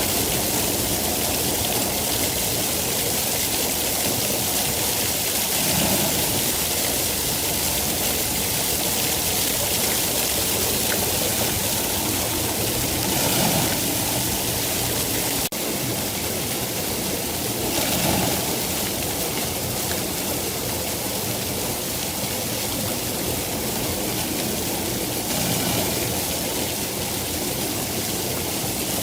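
Steady rain falling, an even hiss with a few gentle swells, and a faint click about halfway through where the level drops slightly.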